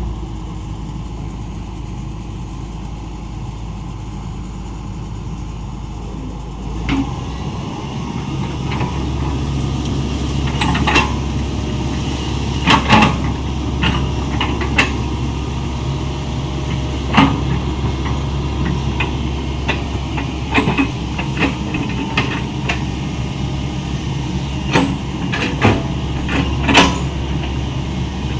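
Hitachi 110 excavator's diesel engine running steadily. About seven seconds in, it picks up and runs louder, and from then on sharp clanks and knocks come at irregular intervals as the machine works.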